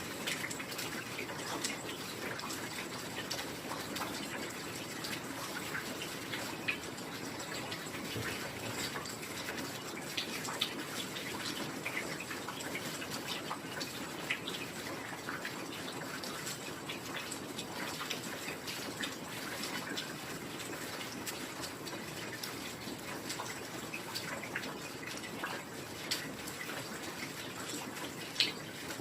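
Steady heavy rain, a dense even hiss with many individual drops ticking close by, and a louder drop hit near the end.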